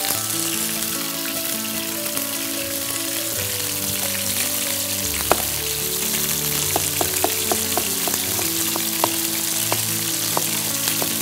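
Aromatics frying with a steady sizzle in a pot. From about five seconds in, a knife slicing onion clicks against a plastic cutting board, several strokes in quick succession.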